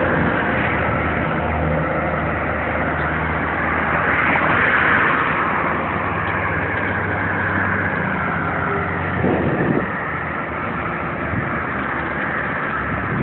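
A motor vehicle engine running steadily, rising in pitch about four seconds in and then settling back.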